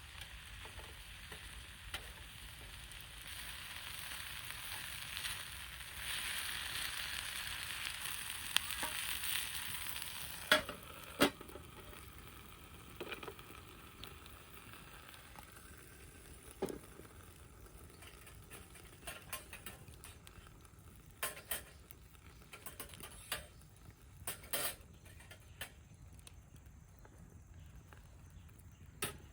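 Food sizzling in a frying pan over a wood fire, swelling for the first ten seconds or so and then dying down, with scattered sharp clicks after that.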